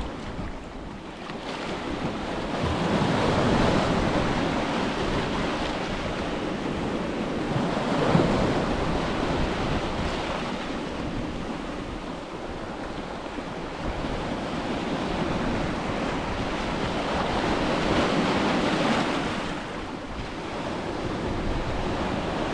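Ocean surf washing onto a beach, waves swelling and breaking in slow surges every few seconds, with wind buffeting the microphone.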